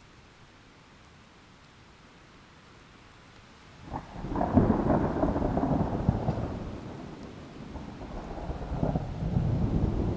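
Rain hissing steadily and softly, then a thunderclap about four seconds in that breaks into a loud, low, rolling rumble, easing off and then rolling up again near the end.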